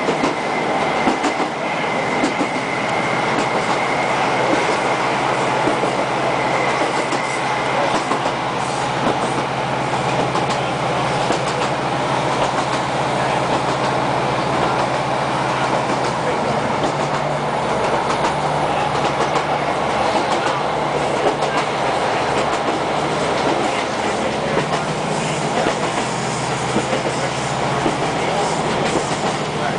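ScotRail Class 156 Sprinter diesel multiple unit running at speed, heard from inside the carriage: a steady rumble of the engine and wheels with the clickety-clack of rail joints. A faint high whine sits on top for the first eight seconds or so.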